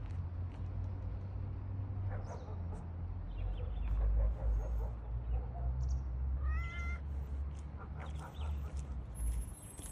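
A domestic cat meowing, with one clear short meow about two-thirds of the way in, over a steady low rumble.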